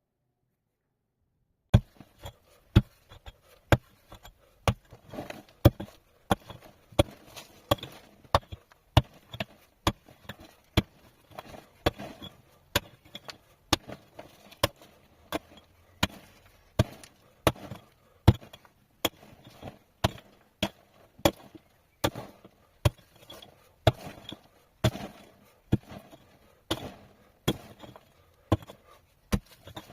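Hand tool striking a hard material over and over, starting about two seconds in: hard blows at roughly one to two a second, with lighter knocks in between.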